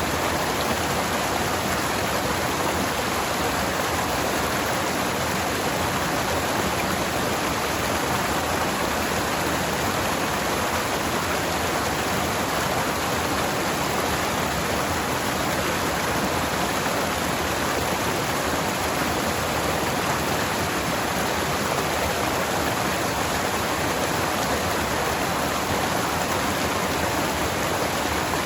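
Forest stream flowing over rocks: a steady, even rush of water with no breaks.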